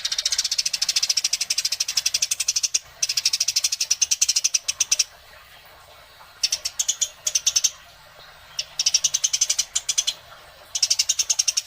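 Eurasian tree sparrows chattering in fast runs of sharp, high chirps, about eight a second, in bursts of one to three seconds with short pauses between: the excited chatter of fighting sparrows.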